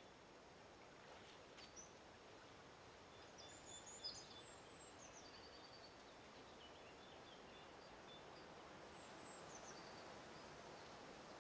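Near silence: faint woodland ambience with a few short, high bird chirps a few seconds in and again near the end.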